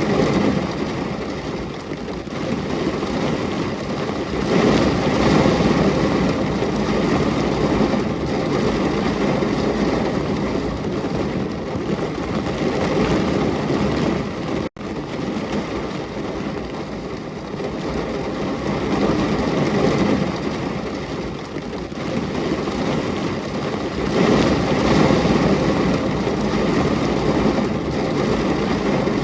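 Rain falling steadily: a dense hiss that swells and eases every several seconds, with a momentary cut-out about halfway through.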